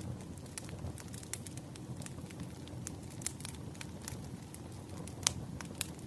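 Wood fire crackling, with irregular sharp pops and snaps over a steady low rush of burning, one louder pop a little after five seconds in.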